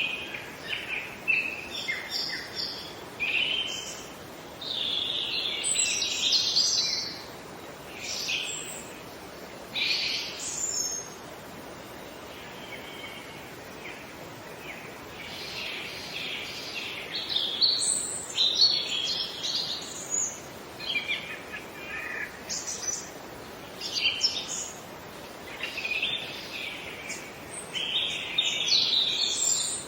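Wild birds chirping and singing in bursts of quick high notes, with a lull of a few seconds midway, over a faint steady background hiss.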